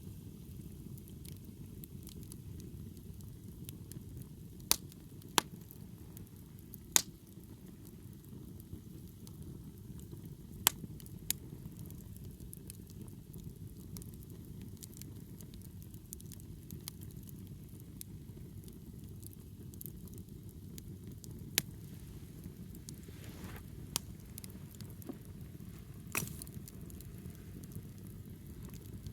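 Wood fire burning with a steady low rush and scattered sharp crackling pops, about eight of them, the loudest bunched in the first third.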